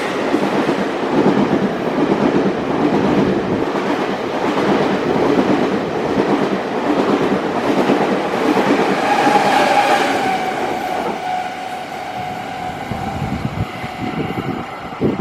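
A train passing close by, its wheels clacking over the rail joints, the noise easing off in the last few seconds as it goes by.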